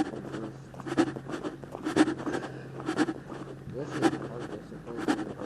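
Footsteps walking at a steady pace, about two steps a second, each a soft thump with a scuff.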